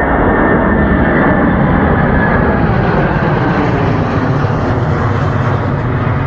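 Airliner's engines running loudly as it passes close by: a steady roar with a faint high whine that falls slightly in pitch over the first few seconds.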